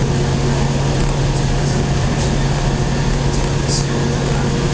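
Running noise of a local electric train heard from inside the carriage: a steady rumble of wheels on the rails with a constant low hum and no pauses.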